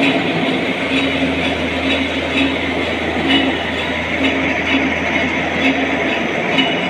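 Metal lathe running steadily during plain turning, a continuous machine hum with faint ticks repeating every second or so.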